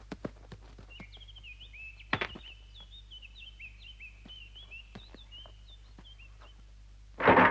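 Birds chirping in a cartoon soundtrack: a quick run of short, high chirps over scattered faint ticks, with one louder thunk about two seconds in. Near the end a sudden loud noise breaks in.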